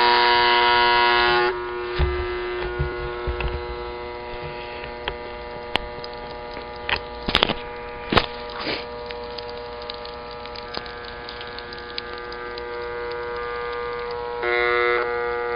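Small Hoover vacuum cleaner's electric motor running on hand-twisted wire connections, a steady whine. It is loud for the first second and a half, then quieter, and loud again near the end. Scattered sharp clicks and snaps come through in the middle.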